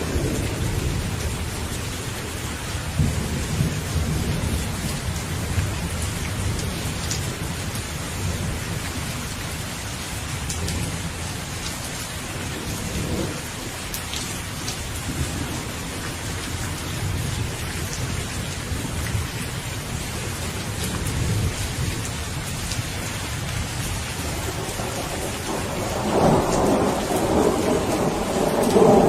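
Steady rain falling with thunder rumbling low and continuously underneath; about 26 seconds in the thunder swells into a louder, longer roll.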